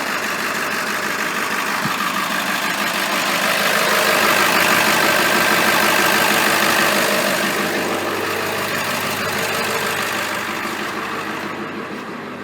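International T444E 7.3-litre V8 turbo-diesel in an AmTran RE school bus idling cold, a steady diesel clatter. It grows louder through the middle and fades toward the end.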